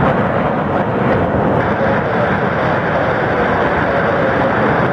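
Jet airliner engine noise: a loud, steady rush with a faint steady whine in it.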